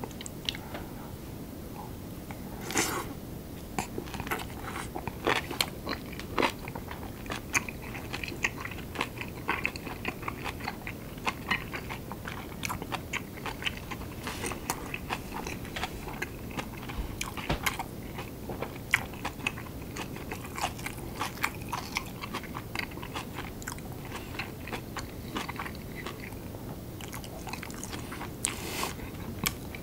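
Close-miked chewing of a mouthful of napa cabbage kimchi: a long, irregular run of crunches and small mouth clicks.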